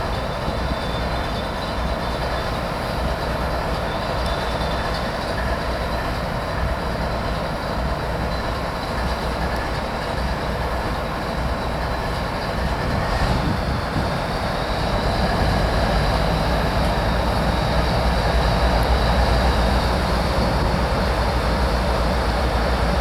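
Florida East Coast Railway train running on the track: a steady rumble with a faint thin high squeal, growing louder about fifteen seconds in.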